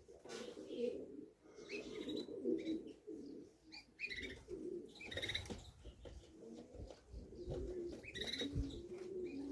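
Racing pigeons cooing over and over, with short high chirps in between.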